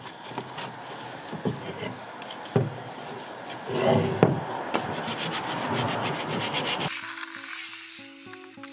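Wood being sanded by hand: a steady rubbing scrape with a few knocks of the wood. About seven seconds in it cuts off and light plucked background music begins.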